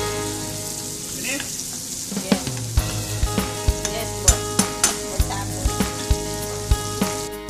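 Chopped tomatoes and onions sizzling in oil in a nonstick frying pan while a wooden spatula stirs them, with frequent sharp clicks and knocks at irregular intervals.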